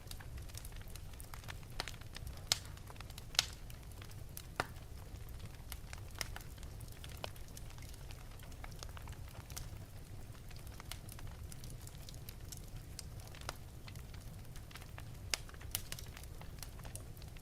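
Wood fire burning in an open fireplace: a steady low rumble of the flames under irregular crackles, with several louder sharp pops, most of them in the first five seconds and near the end.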